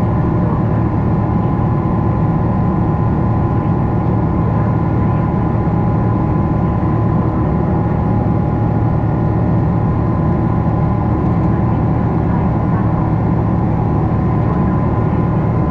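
Jet engine noise inside a Boeing 777-300's passenger cabin: a steady roar with a constant high whine over it.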